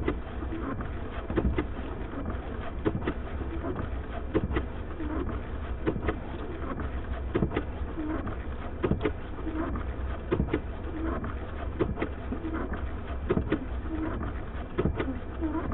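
Car windshield wipers sweeping in a steady rhythm, with a knock about every one and a half seconds and the blades moaning across the glass between knocks, over a steady low rumble from the idling car.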